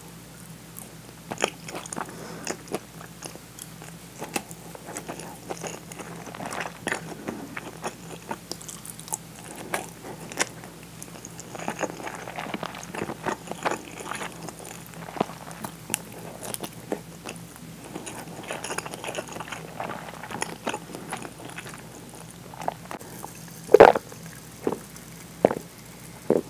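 Close-miked chewing of rice and pickled plum: soft wet mouth clicks and smacks in an irregular stream, with one much louder knock about three-quarters of the way through.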